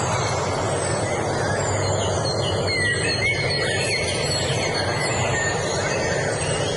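Songbirds chirping and whistling, with short gliding notes over one another, above a loud, steady rushing noise.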